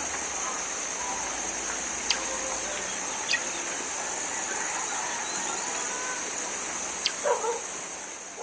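Rural field ambience after rain: a steady high-pitched drone throughout, with a few sharp clicks and a short animal call about seven seconds in.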